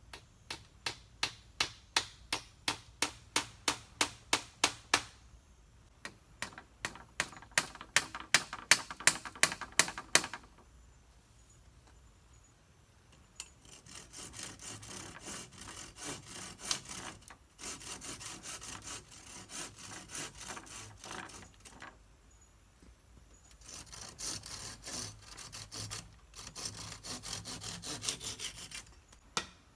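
Wood being cut by hand: two quick runs of sharp, regular strokes, about three a second, followed by longer stretches of rasping and scraping on wood with short pauses between them.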